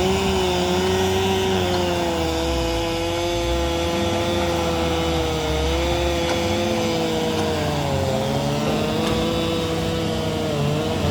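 Engine running steadily at a constant pitch, which drifts slightly and dips briefly about eight seconds in, over a low rumble.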